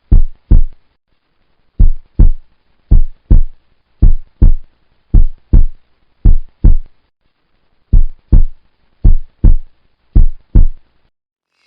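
Heartbeat sound effect: pairs of deep thumps (lub-dub), nine pairs at about one pair a second, stopping shortly before the end.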